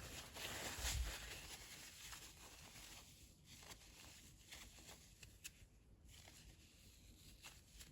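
Tissue paper being handled, rustling and crinkling as it is ripped off and scrunched up. The loudest rustle comes in the first second or so, with a soft thump, then only faint scattered crinkles.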